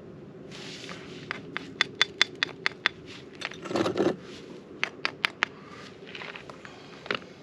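Short scrapes and two quick runs of sharp crackling clicks from lighting fatwood pine sawdust with a ferro rod.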